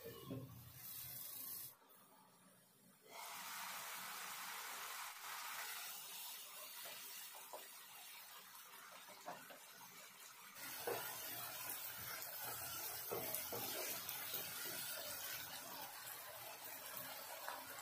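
Onion-tomato masala sizzling in oil in a nonstick pan, a steady frying hiss that drops out briefly about two seconds in. From about halfway on, a wooden spatula stirs and scrapes through the masala, adding short scraping strokes.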